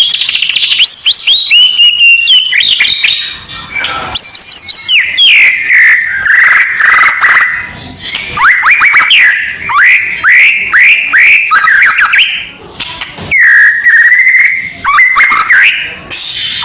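White-rumped shama song played as a loud provocation recording: quick runs of sharp whistled notes that sweep steeply down, mixed with rising and warbling phrases, broken by short pauses.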